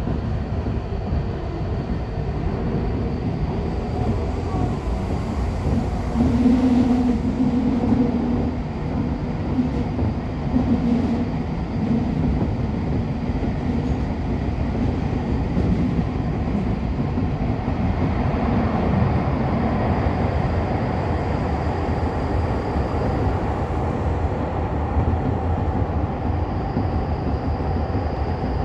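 Subway commuter train running, heard from inside the car: a steady rumble of the wheels on the rails. A low steady tone comes up over it for several seconds about a quarter of the way in.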